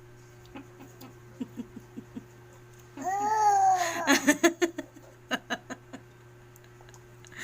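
A person laughing: a few short chuckles, then about three seconds in a long high squeal that breaks into a quick run of laughter, followed by a few more laughs.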